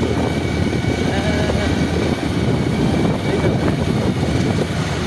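Steady low rumbling noise with faint voices in the background.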